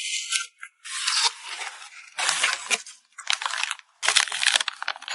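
Plastic packaging being crinkled and rustled by hand while photocards are packed, in a run of bursts about a second long each with short pauses between.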